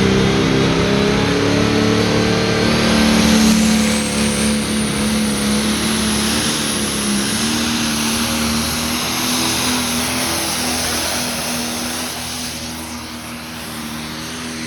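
Pulling tractor's diesel engine running flat out under load as it drags the weight sled, with a high whistle climbing steadily in pitch over several seconds. The engine note grows gradually quieter from about four seconds in.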